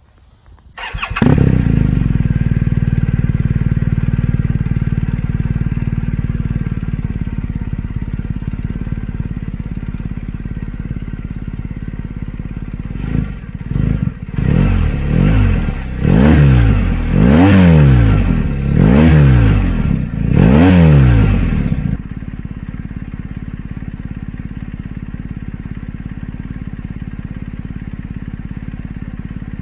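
BMW R1250GS boxer twin breathing through an Akrapovič slip-on muffler with its baffles in: it starts about a second in and idles, settling slightly. Then it is blipped through a string of quick revs that rise and fall, the last four the biggest, before dropping back to a steady idle.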